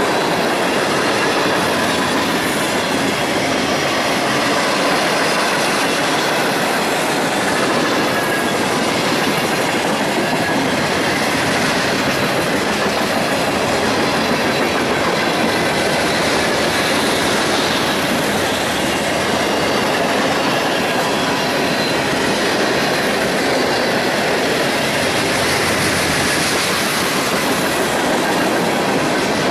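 Freight train cars rolling steadily past at speed, a loud continuous rumble and rattle of wheels on rail with a few faint, steady high squealing tones from the wheels.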